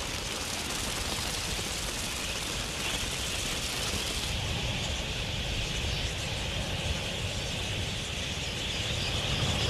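A large flock of birds at a waterhole, heard as a steady rushing noise of many wings.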